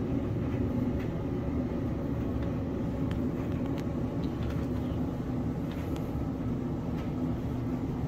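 LG DLGX7801VE gas clothes dryer running: drum turning and blower going with a steady low hum, running smoothly.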